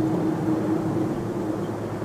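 Jet airliner engines running, a steady rumble with a steady hum through it.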